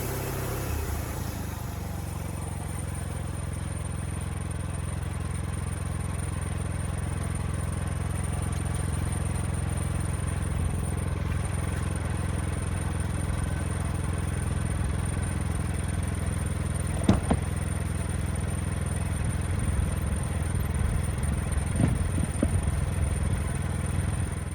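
Wood-Mizer LX55 portable sawmill's 14-horsepower engine running steadily, with a thin high steady tone over it. A couple of sharp knocks sound about 17 and 22 seconds in.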